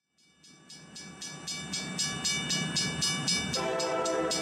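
A train with a rhythmic beat of about four strokes a second that swells in over the first two seconds. A train horn sounds about three and a half seconds in.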